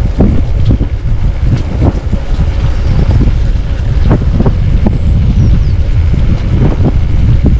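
Wind buffeting the microphone of a moving motorcycle, a dense low rumble with short irregular gusts and knocks through it.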